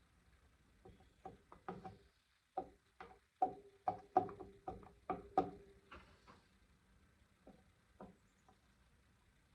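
Irregular series of knocks and clicks, about a dozen clustered from about one to six seconds in, a few with a short ring, then a couple of scattered taps: hands and tools working on a small pit bike's metal parts.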